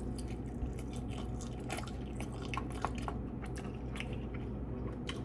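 A person chewing and eating Buldak spicy instant noodles close to the microphone: many small wet mouth clicks and smacks scattered throughout, over a steady low hum.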